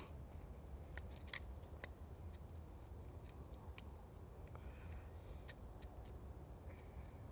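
Wood fire crackling: irregular sharp pops and snaps of burning wood, one or two a second, over a faint low rumble.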